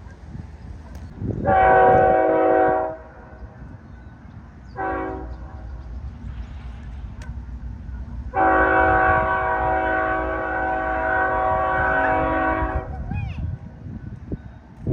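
Locomotive air horn sounding for the crossing: a long blast, a short one, then a long blast of about four seconds, each a multi-note chord. The low rumble of the passing train runs underneath.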